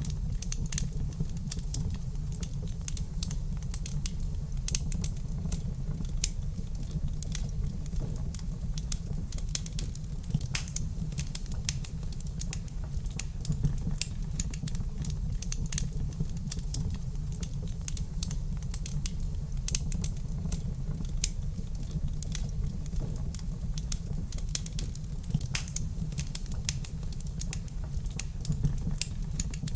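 Wood fire burning in a fireplace, crackling with many small irregular pops and snaps over a steady low rumble.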